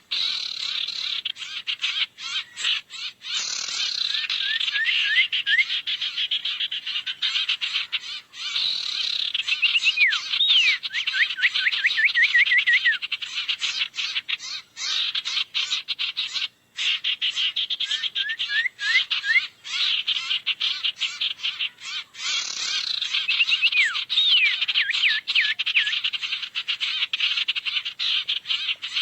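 Bird-luring (pikat) recording: a dense, continuous chorus of small birds chattering and calling rapidly, with runs of quick upswept chirps coming back every few seconds.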